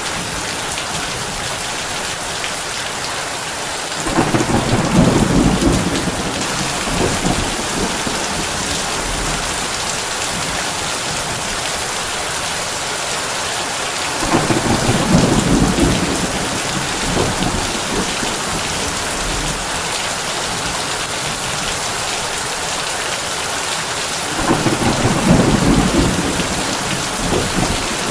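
Heavy rain falling steadily on a tin roof, with three low rolls of thunder about ten seconds apart, each lasting around two seconds.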